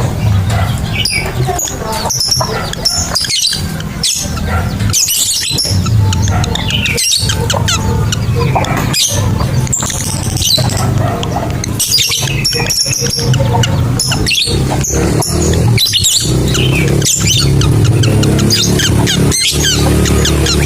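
Lovebirds calling: shrill, rapid chirping and chattering in repeated bursts, over a steady low drone.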